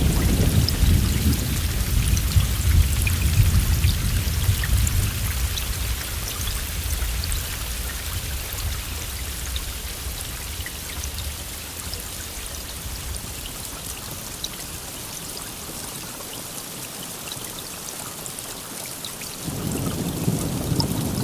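Steady rain with drops pattering throughout, under a low thunder rumble that slowly dies away over the first ten seconds or so; a new roll of thunder starts near the end.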